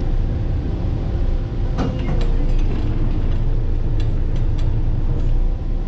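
A ferry's engine runs with a steady low rumble, mixed with wind noise on the microphone. Scattered clicks and knocks come about two seconds in and again around four seconds in.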